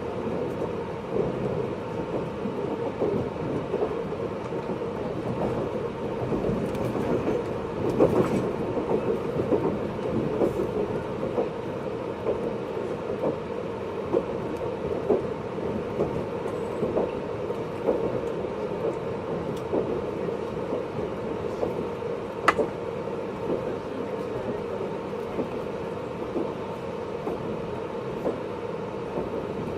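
Running noise heard inside a JR 583 series electric train's motor car: a steady rail rumble with scattered small clicks from the wheels on the track, and one sharp click about two-thirds of the way through.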